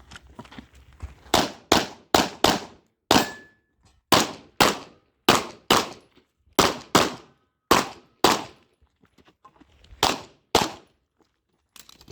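Pistol shots fired mostly in quick pairs, about fifteen shots in ten seconds with short pauses between the pairs, as a USPSA stage is shot.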